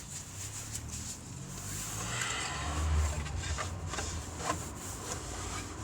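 Hands-on work at a car alternator in its engine-bay mounting: scattered metallic clicks and knocks with rubbing and a low rumble, loudest about three seconds in, as a seized alternator that has never been out is worked at to free it.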